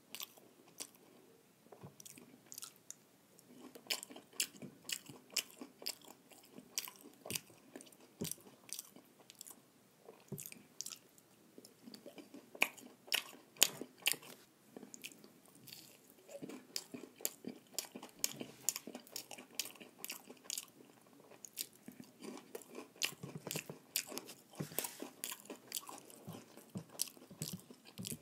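A person chewing and biting into fried snacks, with crunching and many sharp mouth clicks in quick, irregular succession. The loudest bites come about halfway through.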